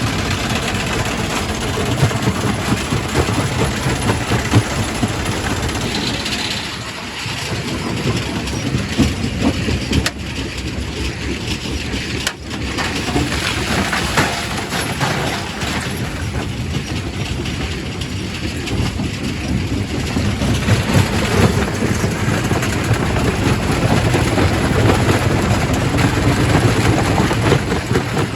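Primary rock crusher breaking stone: a continuous heavy clatter and grinding of rock with frequent knocks, easing briefly twice.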